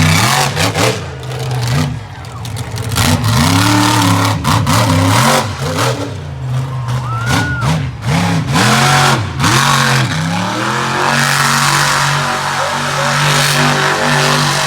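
Monster truck engine revving hard, its pitch rising and falling again and again as the throttle is worked for about ten seconds, then holding a steadier note near the end.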